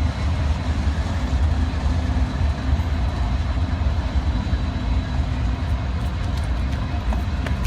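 Mixed freight train's cars rolling past on the rails: a steady rumble of wheels with a few faint clicks near the end.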